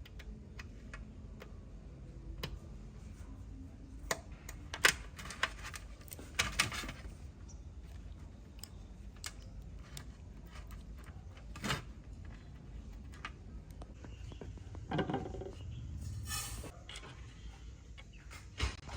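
Scattered clicks, clinks and knocks of hard objects being handled, the loudest about five and six and a half seconds in, over a low steady hum.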